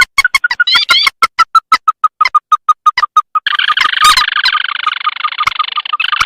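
Recorded rail and crake lure calls: a fast run of short, clipped repeated notes, with a few rising notes at first, that about halfway through thickens into a dense, continuous chatter of overlapping calls.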